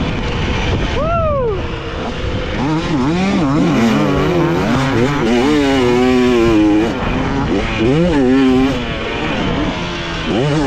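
Dirt bike engine revving hard and easing off over and over as it is ridden around a motocross track, its pitch rising and falling every second or so. About a second in there is a quick high rev that climbs and drops sharply.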